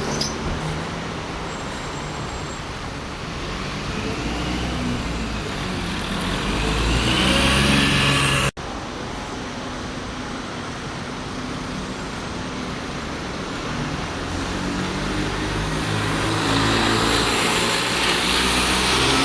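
Bus engines running in road traffic, one getting louder as it comes near. About eight and a half seconds in, the sound cuts off abruptly and another engine picks up, growing louder toward the end.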